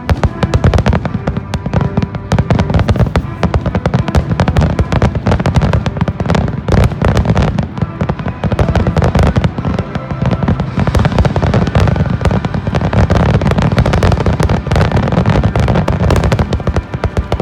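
Aerial firework shells bursting in a dense, continuous barrage of bangs, many a second, as in a display's finale. Music plays faintly underneath.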